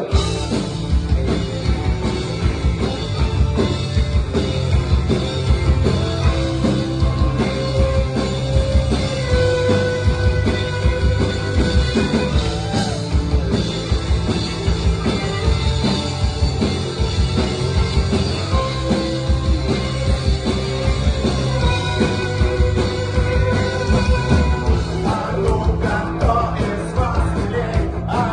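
Rock band playing a song, drums and bass keeping a steady beat under guitars, with a singing voice.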